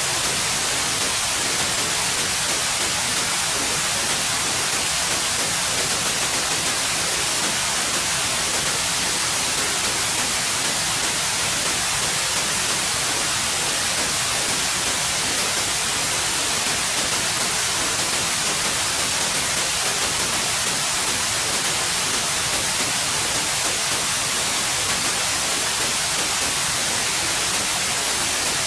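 Steady white noise: an even, unbroken hiss with no changes, brightest in the high frequencies.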